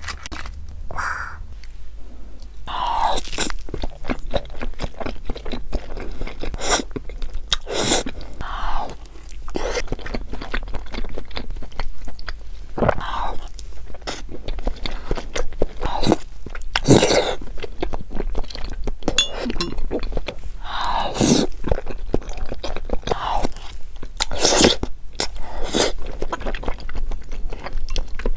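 Close-up eating sounds: a person chewing crunchy food, with repeated sharp, irregular crunches and bites.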